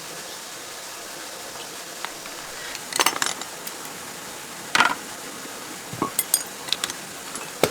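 Metal tools and parts clinking and knocking together a few times, in separate sharp strikes: a couple about three seconds in, a louder one near five seconds, a scatter of lighter clinks after that, and one near the end, over a steady low hiss.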